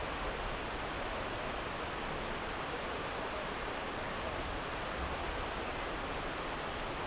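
Kamo River babbling: a steady, even rush of shallow flowing water.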